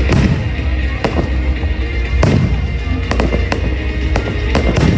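Fireworks going off in a run of about nine sharp bangs at uneven intervals, several close together in the second half, over music playing in the background.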